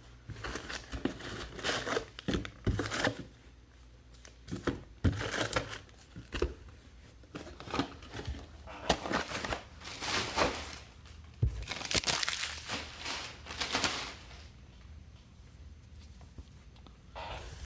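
Trading card pack wrappers crinkling and tearing as packs are ripped open, in short irregular bursts.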